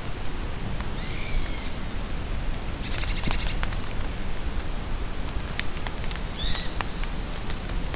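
Steady rain falling in a forest, with scattered drips, while songbirds call over it: a phrase of high calls about a second in, a rapid trill around three seconds, short chirps, and another call phrase near the end.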